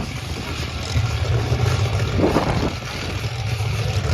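Monster truck engines running hard in a race: a loud, steady low rumble with a few brief swells.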